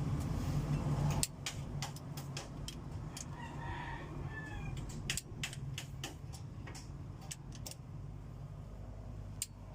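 A rooster crowing in the background about halfway through, over scattered sharp metallic clicks from a wrench on the engine's head bolts. A steady low hum cuts off about a second in.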